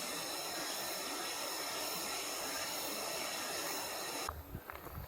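A steady rush of flowing water with a high, continuous buzz of cicadas over it. About four seconds in it cuts off abruptly to a much quieter background with a few soft low thuds.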